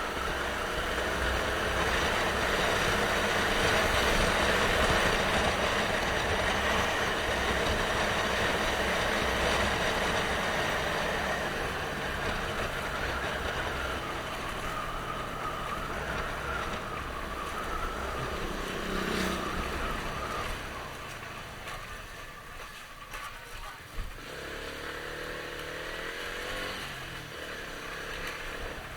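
Motorcycle engine running while on the move, with steady wind and road rush; the sound is louder over the first half and quietens about two-thirds of the way in.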